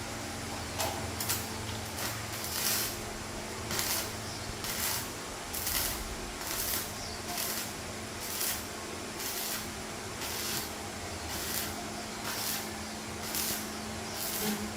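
Rhythmic rasping strokes, about one a second, over a steady low hum.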